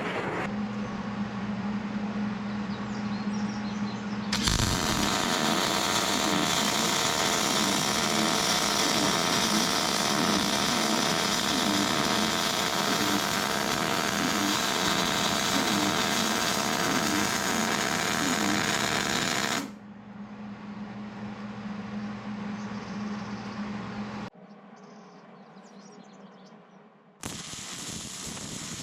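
MIG welder arc crackling steadily in one long bead of about fifteen seconds, starting about four seconds in and cutting off abruptly. Before and after the weld a steady low hum is heard.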